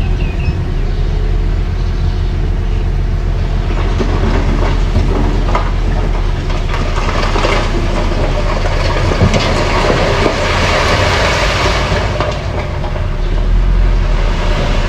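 Mini crawler bulldozer running, its engine rumbling steadily under the clatter of its tracks, louder for several seconds in the middle.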